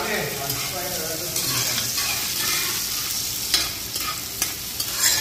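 Sliced onions and peppers sizzling in hot oil in a large metal pot, stirred with a metal spoon that scrapes and knocks against the pot a few times, mostly in the second half.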